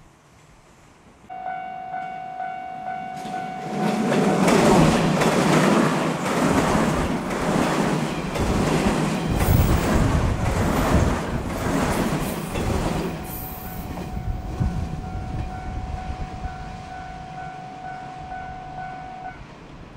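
A 115-series electric multiple unit passes close by on a steep downgrade, braking on its resistors, with wheels clattering rhythmically over rail joints. A pulsing level-crossing warning bell rings before the train drowns it out, comes back after it has passed, and stops near the end.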